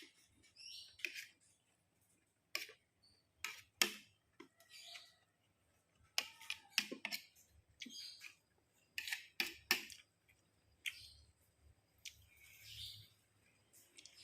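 Close-up eating sounds: chewing fried rice, with sharp mouth clicks and smacks at irregular intervals.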